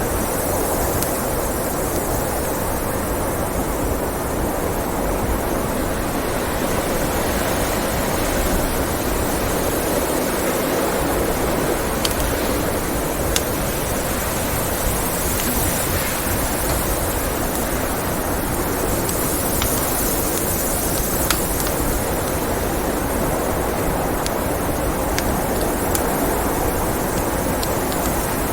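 Blizzard wind blowing steadily, rising and falling slowly, with a few sharp pops from a wood fire burning in a fireplace.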